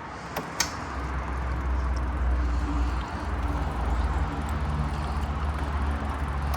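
Two sharp clicks, then the Bad Boy 3026 compact tractor's engine starts and runs with a steady low rumble, dipping briefly about three seconds in.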